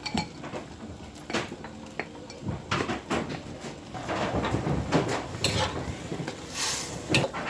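Kitchen dishes and utensils clinking and knocking, in a string of short, sharp clicks with a brief hiss near the end.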